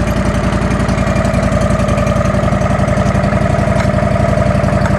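Wood-Mizer LT15 Wide sawmill's engine running steadily at idle, with an even, rapid firing pulse and a steady whine above it.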